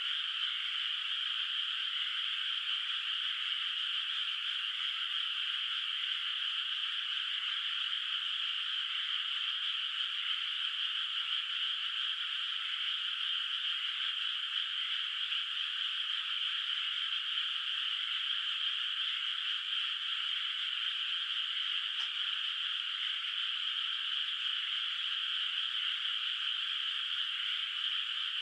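A dense chorus of many frogs calling in a flooded rice paddy, their calls merging into a steady, even wash. A single faint tick comes about twenty seconds in.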